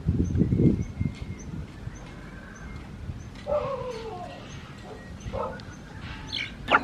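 Farm poultry calling: a couple of short falling calls around the middle, over a faint high chirp repeating about twice a second, with a few low thumps in the first second.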